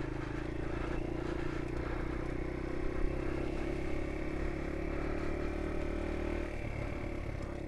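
Small 50 cc motorbike engine running steadily at low speed, its note dropping about six and a half seconds in.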